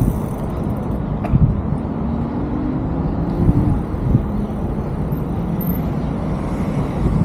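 Wind rumbling on the camera microphone with tyre and road noise from a moving e-bike, steady throughout, with a faint whine from about two to three and a half seconds in.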